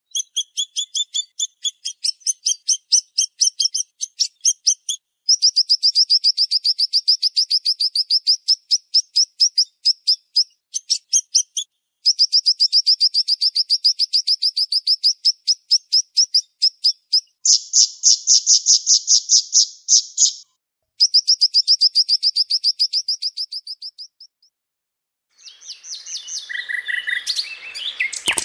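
Siri-siri songbird giving rapid, tightly spaced trills of sharp high notes, the fast 'tembakan' bursts that bird keepers use as training song, in bouts separated by short pauses. The trills stop a few seconds before the end, and a different sound fades in and rises.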